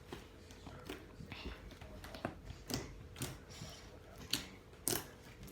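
Slime being mixed and squeezed by hand, giving irregular sticky clicks and wet pops.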